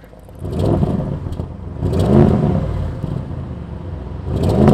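Audi RS7 C8's twin-turbo V8 revved in throttle blips. The engine note rises and falls several times, the biggest blips about two seconds in and again near the end.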